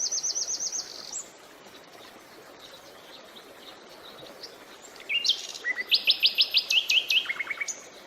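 Songbirds singing over the steady hiss of flowing creek water. A fast trill of rapidly repeated high notes opens, a stretch of quieter calls follows, and from about five seconds in the song returns with another quick trill and a lower trill near the end.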